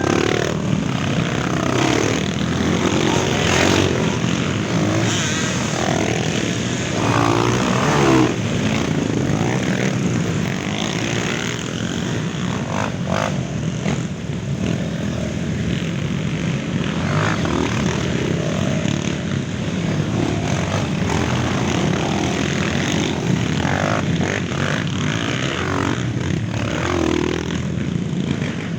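Many trail motorcycles running together, engines repeatedly revving up and down over a continuous engine drone.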